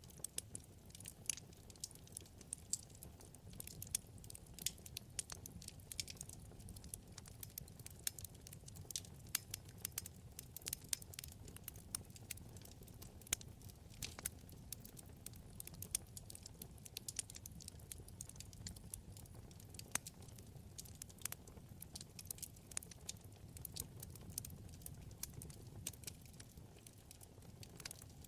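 Wood fire burning in a fireplace: a low steady rumble of flames with many sharp, irregular crackles and pops from the burning wood.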